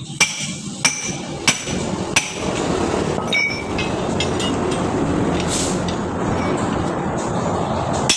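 Four hammer blows on steel of a truck wheel, spaced about two-thirds of a second apart, each with a short metallic ring, struck while working the tire off the rim. Then a few light metal clinks, over a steady noise.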